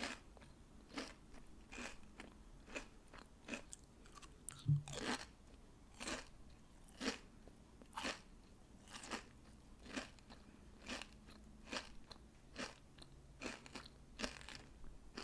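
Crystal candy being bitten and chewed: crisp crunches about once a second, the loudest a little under five seconds in.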